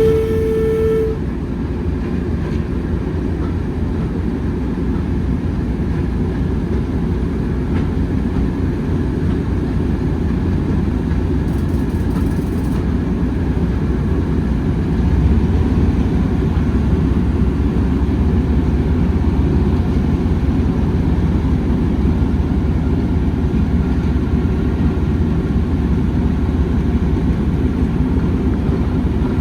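Railway train running with a steady, heavy rumble. A short horn note sounds in the first second.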